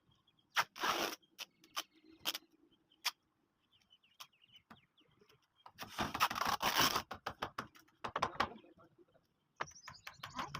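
Irregular sharp knocks and clicks, with a denser scraping clatter about six seconds in and a rapid run of clicks near the end.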